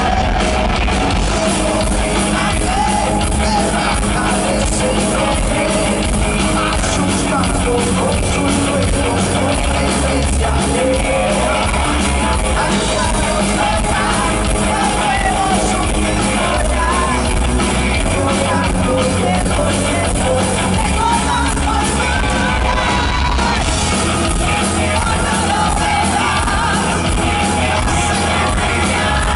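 Heavy metal band playing live, with a singer's voice over loud guitars, bass and drums.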